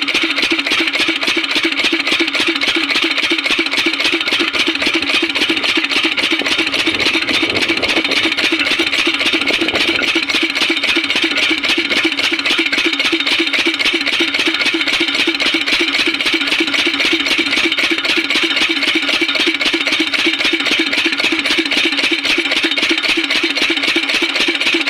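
Diesel water-pump engine running steadily with a fast, even beat.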